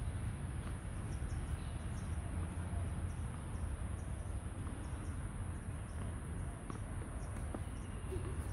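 Steady high-pitched buzz of insects over a low rumble, with a few faint knocks.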